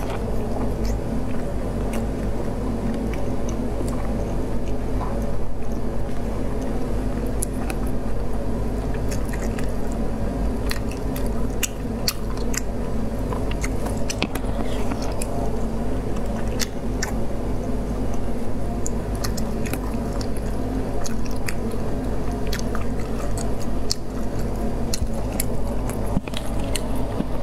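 Close-up chewing and biting of soft, wet food, with many scattered lip-smacking clicks over a steady low background hum.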